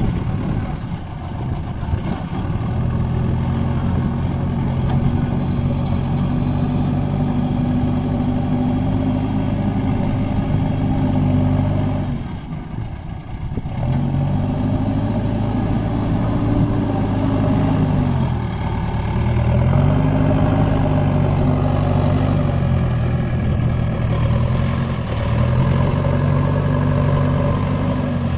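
Tractor engine working under load. It revs up and holds steady, drops briefly about twelve seconds in, then surges up and falls back several times.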